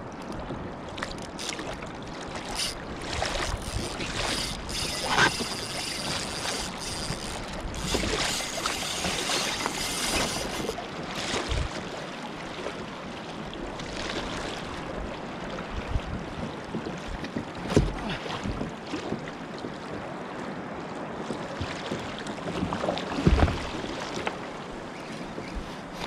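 Sea water splashing and slapping around a kayak in rough, choppy water, with wind on the microphone, scattered knocks and a few heavier thumps, the loudest near the end.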